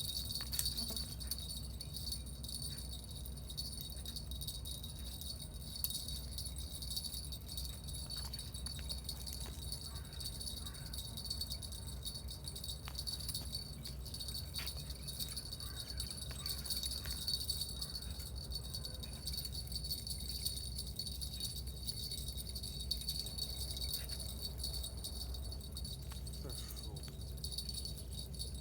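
A steady, high-pitched chirring of insects, crickets or bush crickets, with a faint low rumble of wind or water beneath it.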